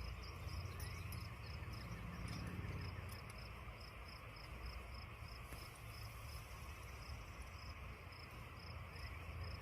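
Insect chirping in a steady, even rhythm of about three high-pitched chirps a second, over a low rumble.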